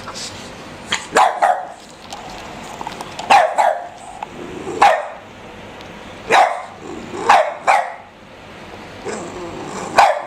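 Small dogs at play: a Boston terrier and a pug puppy, one of them giving short, sharp play barks, about ten in all, singly or in quick pairs.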